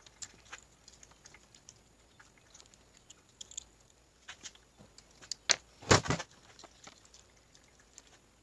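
Scattered light clicks and taps of metal transmission parts and tools being handled, with a few louder knocks about five and a half to six seconds in.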